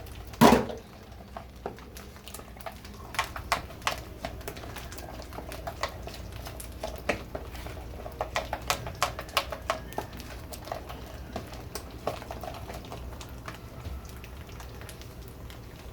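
A sharp knock about half a second in as an egg is cracked on the bowl, then a utensil clicking repeatedly against the bowl as the egg is beaten into the mayonnaise and cornmeal batter.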